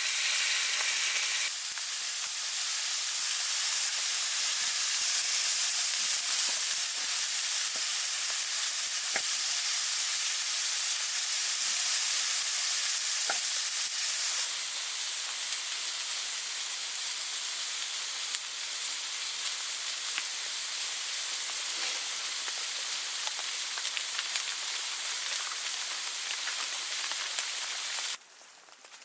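Food frying in a pan: a steady sizzling hiss with scattered small pops and crackles. It cuts off abruptly near the end.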